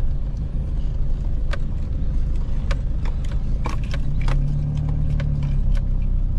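A vehicle driving slowly over rough ground, its engine and tyres giving a steady low rumble, with a scatter of sharp clicks and knocks through the middle. A steadier low hum comes in about four seconds in.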